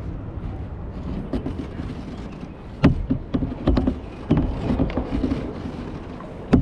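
Kayak paddling: paddle splashes and a run of sharp knocks against the kayak over a low rumble, the loudest knock about three seconds in.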